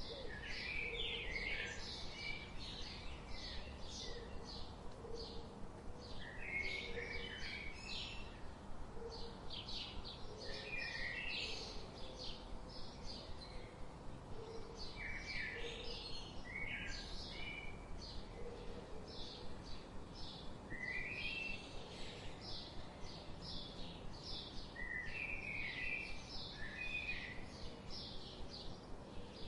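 Forest birdsong from several birds: rapid high chirps repeating about three or four times a second throughout, with short lower song phrases every few seconds and faint low notes beneath.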